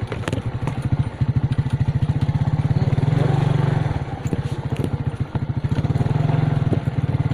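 Small motorcycle engine running under way, a rapid steady low pulsing that grows louder for about a second, around three seconds in.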